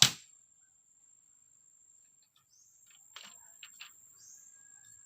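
A last sharp tool strike at the very start, ending a quick run of blows on bamboo. Then it is quiet apart from faint bird chirps and a few light knocks from the middle onward.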